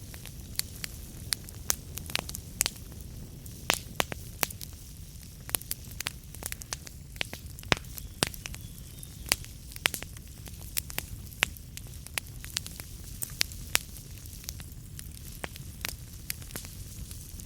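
Wood fire burning in a fireplace: irregular sharp crackles and pops of the burning logs, many a second, over a steady low rumble of the flames.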